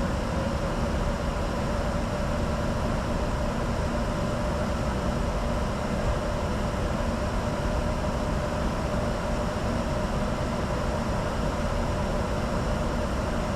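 Steady cockpit noise of a Bombardier Challenger 605 business jet in descent: air rushing past the fuselage with a faint steady hum underneath, constant throughout.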